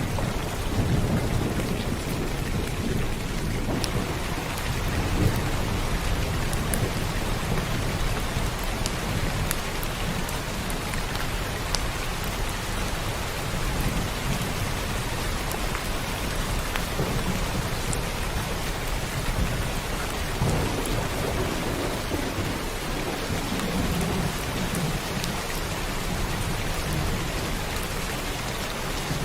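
Steady heavy rain with scattered individual drop impacts, and rolls of thunder rumbling low several times, near the start, around five seconds in, and again in the later part.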